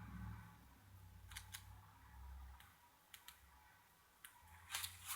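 Faint, scattered clicks and snaps of tarot cards being handled, about eight light ticks, more of them near the end, over a low hum that stops a little over two seconds in.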